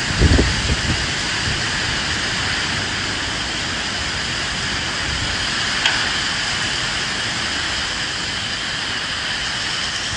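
Steady rain with wind, an even, unbroken hiss. A few low rumbles come in the first second.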